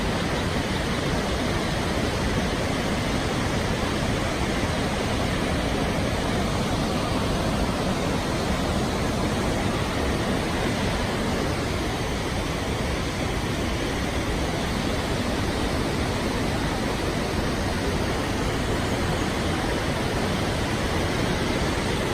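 Waterfall on the Krka River rushing steadily, an even, unbroken wash of water noise.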